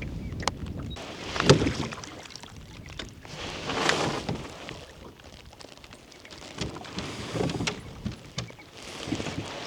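Oars pulling a rowboat through lake water: a splashing swish with each stroke, about every two and a half to three seconds, with an occasional sharp knock.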